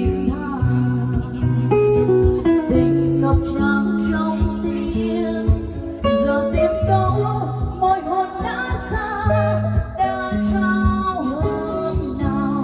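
Instrumental interlude of a slow ballad played on a keyboard: a guitar-like melody with vibrato over sustained bass notes.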